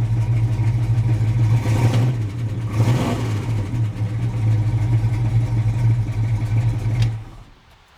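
Plymouth Barracuda engine idling with a steady low rumble, then switched off about seven seconds in, the sound dying away.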